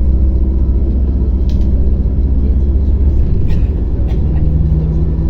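Interior of a MAZ-105.465 articulated city bus under way: a steady low engine and road rumble with a few short rattles. About four seconds in, a new steady engine note comes in.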